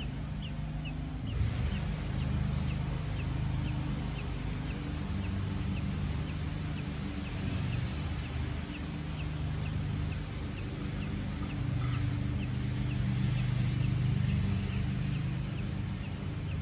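Short high chirps repeating about twice a second, over a steady low rumble.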